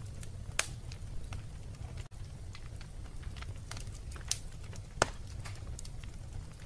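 Wood fire burning in a fireplace: a steady low rumble of flames with scattered sharp crackles and pops, the loudest about half a second in, just past four seconds and about five seconds in. The sound drops out for a split second about two seconds in.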